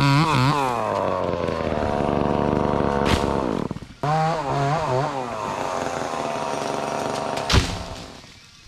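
Chainsaw cutting through a pine section, its engine pitch wavering and dipping under load, with a short drop in level about four seconds in. A loud sharp thump comes near the end, and then the saw's sound falls away.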